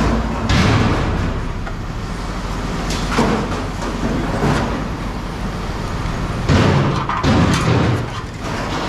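Engine running steadily, with loud clanks and bangs of scrap metal being handled: a few single hits, then a quick cluster of several near the end.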